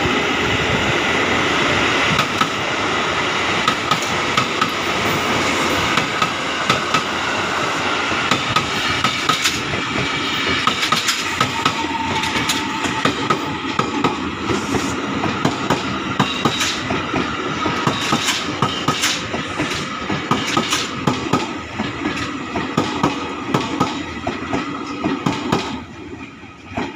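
A KRL Commuter Line electric train passes close by. It starts with a steady rumble and whine, then its wheels click rhythmically over the rail joints for most of the pass. The sound drops away near the end as the train goes by.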